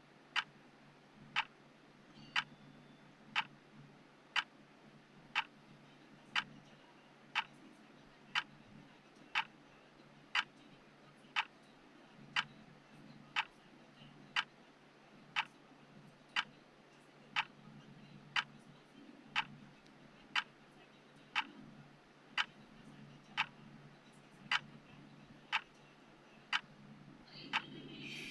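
Countdown timer's tick sound: a sharp clock-like tick once every second, steady and even, over a faint low hum.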